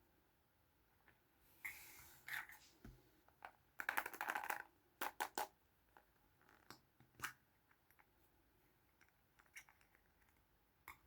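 Small plastic Kinder Surprise toys handled and set down: a scattering of light clicks and taps, a brief scraping rustle about two seconds in, and a dense clatter about four seconds in.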